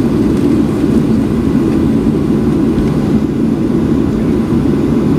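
Steady cabin noise inside a Boeing 737-700 taxiing after landing, its engines running at idle.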